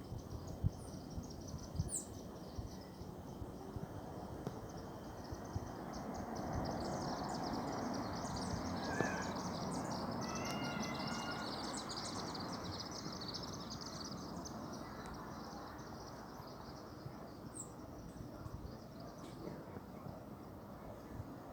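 Outdoor ambience with a few short bird calls, over a steady rushing noise that swells gently in the middle and fades again.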